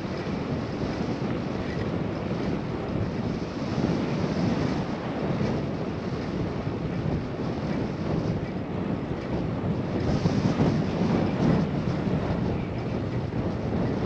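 Wind rushing over the microphone of a GoPro on a moving bicycle, a steady noisy rush that swells a little partway through.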